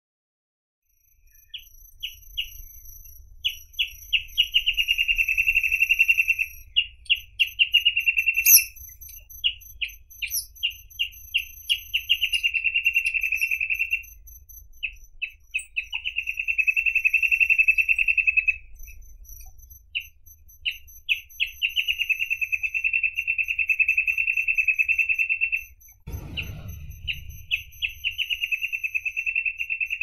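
Reed parrotbill singing: each phrase opens with a few spaced notes and speeds into a fast, even trill lasting two to three seconds, repeated every few seconds. A low bump sounds near the end.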